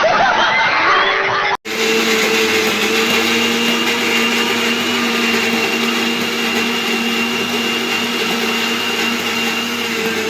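Electric kitchen mixer grinder running steadily at constant speed, grinding masala, after a brief bit of voices; the motor starts abruptly about one and a half seconds in.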